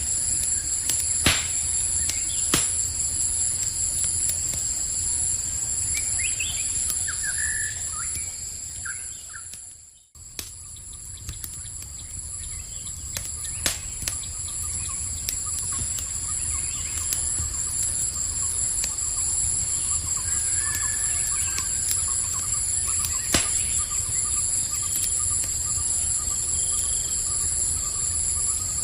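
Campfire crackling with a few sharp pops, over steady high-pitched chirring of night insects. About ten seconds in the whole sound fades out to almost nothing and then fades back in.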